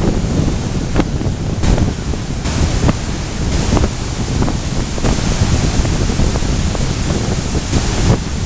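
Strong wind buffeting the microphone in a heavy low rumble, over the steady wash of surf, which swells into a louder hiss midway through.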